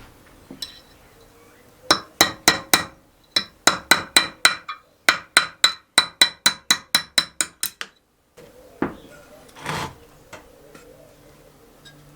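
Hammer striking metal in quick ringing blows: two short runs of taps, then a steady series of about four strikes a second that stops abruptly. A brief scrape follows.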